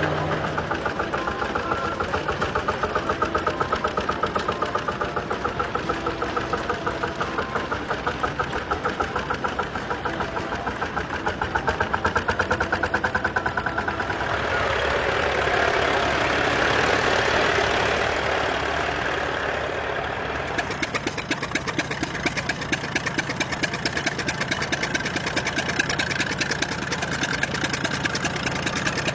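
Old tractor engine running with a steady, fast firing beat; the sound swells and turns noisier for a few seconds about halfway through, then the firing beat comes back clearly.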